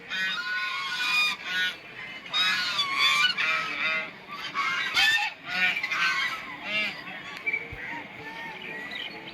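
A flock of geese honking, many short calls overlapping and following one another without a break.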